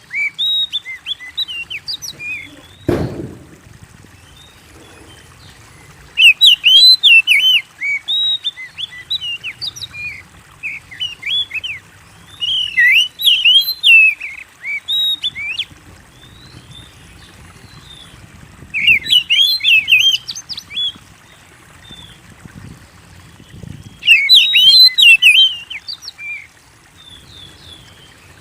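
Oriental magpie-robin singing in bursts of rapid, high whistled and chattering phrases, a fresh burst every five or six seconds with quieter gaps between. A single dull thump about three seconds in.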